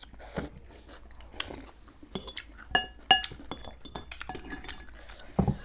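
Spoons and utensils clinking against bowls during a noodle meal: scattered sharp clinks, a few of them ringing briefly, the loudest two close together about three seconds in.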